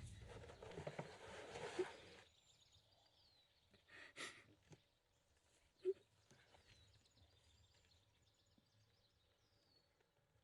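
A rushing noise fades out over the first two seconds, leaving quiet forest ambience with a few faint high bird chirps, a brief rustle about four seconds in and a soft thump about two seconds later.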